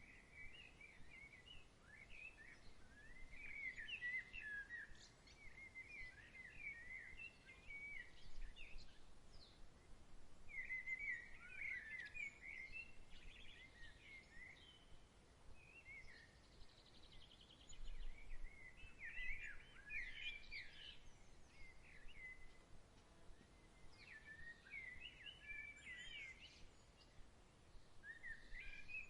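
Songbirds twittering and warbling in bouts of a few seconds, with short gaps between, over a faint steady background hiss of breeze.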